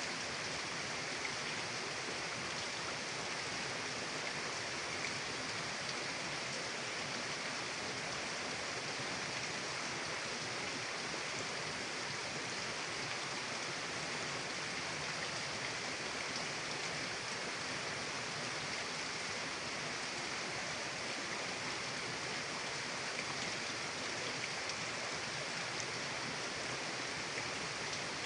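A mountain river's water rushing steadily, an even hiss with no change over the whole stretch.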